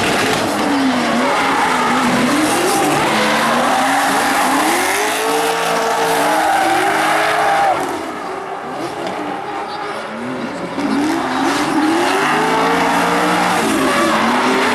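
Drift cars sliding with engines revving up and down over screeching tyres. The engine note rises and falls again and again through the slides, dropping quieter for a few seconds past the middle before coming back loud.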